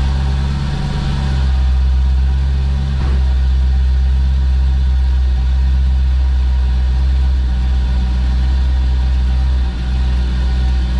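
Swapped-in Nissan V8 engine idling steadily, heard from the front where its intake draws through a freshly fitted air filter; the intake noise is only a little muted by the filter.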